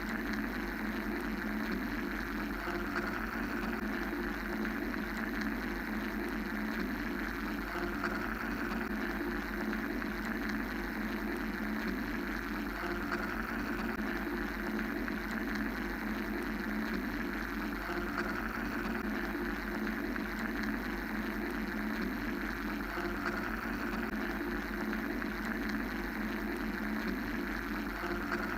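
Steady mechanical white-noise drone: a low hum, a dense rumble and a higher hiss layered together, with the hiss slowly swelling and easing about every ten seconds.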